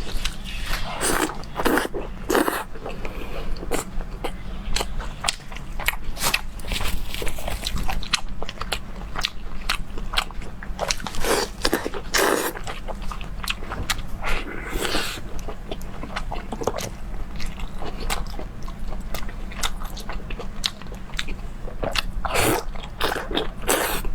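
A person eating close to the microphone: repeated bites and chewing with many sharp clicks, in louder clusters now and then, over a steady low hum.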